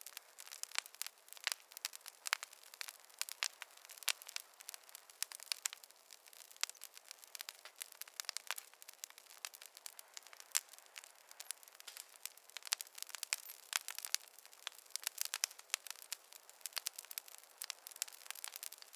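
Campfire crackling: wood burning, with many irregular sharp pops and snaps over a faint hiss.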